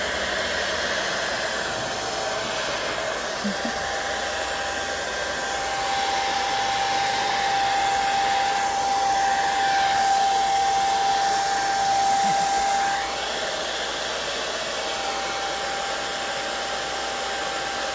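Hair dryer running on its low setting: a steady rush of air with a steady motor whine, a little louder through the middle.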